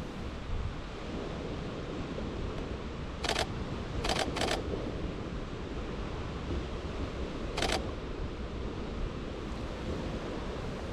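Four sharp camera shutter clicks, two of them close together about four seconds in and the last near eight seconds, over a steady rush of wind and waves.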